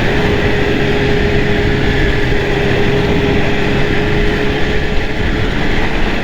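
Arctic Cat Thundercat snowmobile engine running at a steady pitch under way, with wind rushing over the microphone. The engine tone fades out near the end.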